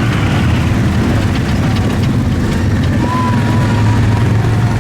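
Big mud truck engine running loudly with a deep, steady rumble. A thin high whine joins it about three seconds in.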